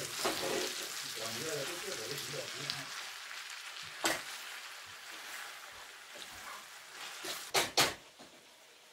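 Meat and vegetables sizzling in a stainless steel frying pan as they are stirred with a wooden spoon, the sizzle slowly dying down. A sharp knock comes about four seconds in, and two louder knocks close together near the end.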